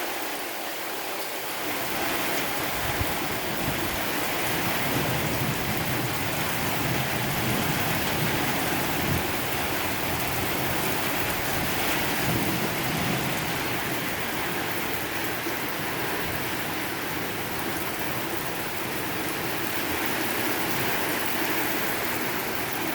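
Heavy thunderstorm rain pouring steadily, with strong gusting wind.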